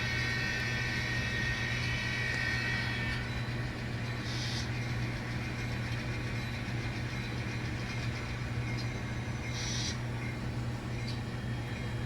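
Sound-equipped N scale model locomotive playing its engine sounds through its small speaker: a steady engine drone, with a higher whine and hiss that stop about three seconds in and two short hisses later on.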